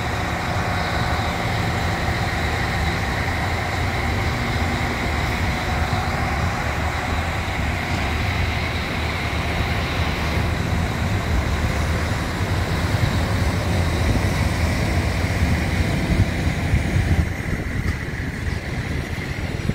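Steady low rumble of a passenger train running slowly through a station, heard from an open carriage window, with faint steady high tones over it that die away about halfway through.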